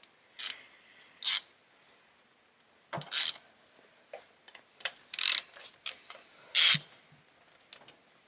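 Hands working on a camshaft position sensor and its plug connector: a string of short, irregular scrapes and clicks, with a couple of light knocks, as the connector is unclipped and the sensor worked loose.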